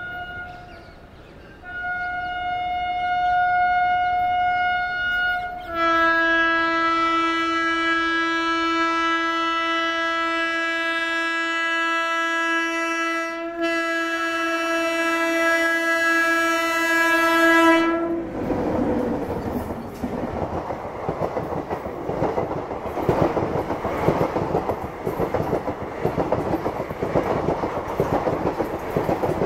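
WAP-7 electric locomotive's horn: two single-note blasts, then a long blast with a lower second note added, broken briefly midway. After the horn stops, passenger coaches pass close at speed with a steady rumble and clickety-clack of wheels over rail joints.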